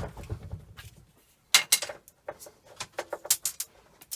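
A mains plug being taken apart by hand for its fuse: a sharp click, then a run of irregular small clicks and clatters of plastic and metal parts.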